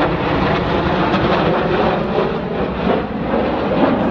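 Jet aircraft engine noise: a loud, steady rushing rumble.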